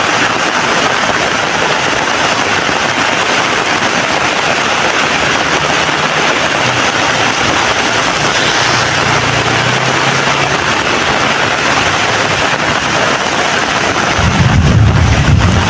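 Heavy rain falling, a loud, steady hiss. A low rumble briefly comes in about two-thirds of the way through and swells louder near the end.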